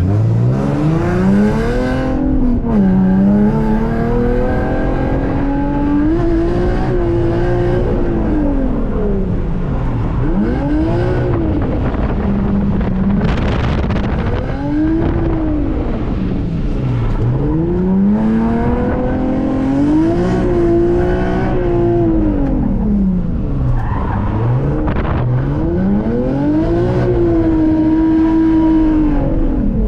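Drift car's engine revving hard under load, its pitch climbing and dropping in long sweeps every few seconds as the car is driven through a run of corners.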